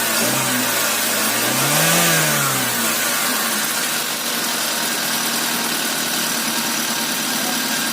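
Overhauled Proton Iswara 4G13 SOHC four-cylinder engine, bored up to 1.5 litres with 4G15 pistons and a 272° racing cam, being blipped on the throttle. It gives one higher rev about two seconds in, then settles to a steady idle.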